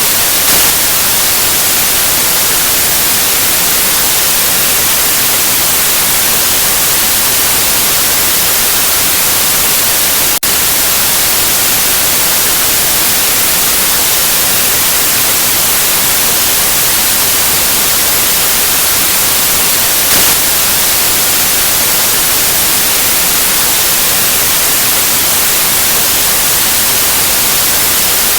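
Steady white noise: an even, loud hiss with no tone or rhythm, strongest in the high frequencies. A faint click, with a brief dip in level, comes about ten seconds in.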